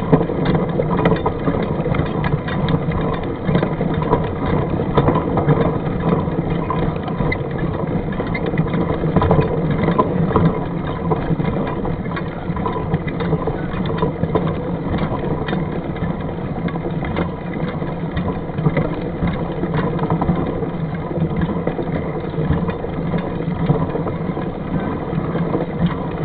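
Mountain bike ride heard through the bike's or rider's camera: a steady rumble of wind and rolling noise with constant small rattles and knocks from the trail.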